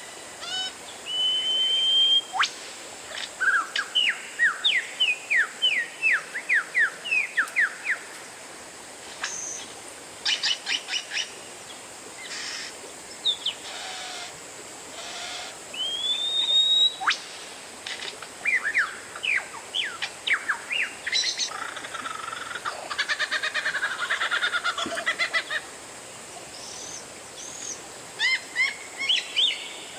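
Oriental magpie-robin song: a varied run of clear whistles, including a long held whistle and a rising one, strings of quick downward-swept notes, and a dense rattling trill a little past the middle.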